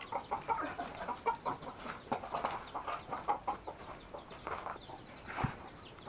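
Chickens clucking, a steady run of short calls, with a single low thump about five seconds in.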